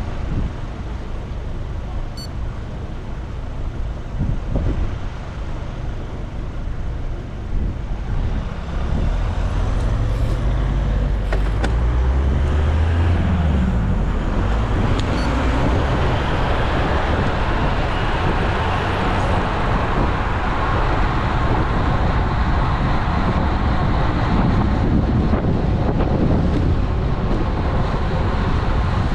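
Road traffic heard from a moving bicycle, with a steady rush of noise on the action camera's microphone. About a third of the way in a motor vehicle passes close, its engine note rising and falling, and the rushing noise is louder from then on.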